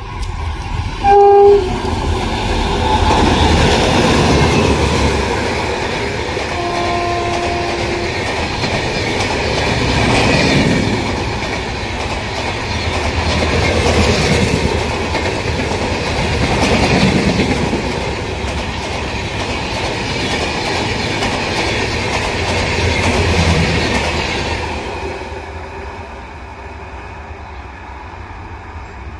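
Express passenger train hauled by an electric locomotive passing at speed. A short horn blast sounds just over a second in, and a second, lower-pitched blast comes about seven seconds in. The coaches then rush past with heavy wheel-on-rail rumble and clickety-clack, swelling and ebbing in waves, and the sound fades as the last coach goes by about 25 seconds in.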